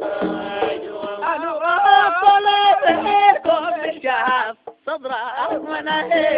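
Male voice singing a long, wavering melismatic line of a Sufi praise song, with held notes and ornamented turns, breaking off briefly about four and a half seconds in.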